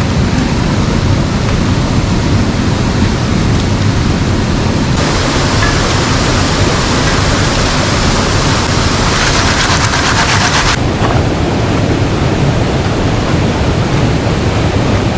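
Rushing brook water, a steady loud rush. About five seconds in it turns abruptly brighter and hissier for about six seconds, then drops back to a deeper rush.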